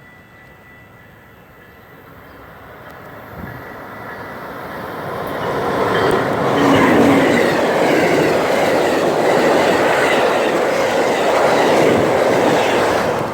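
Amtrak passenger train approaching, growing steadily louder over about six seconds, then passing close by with a loud, steady rush of wheels on the rails.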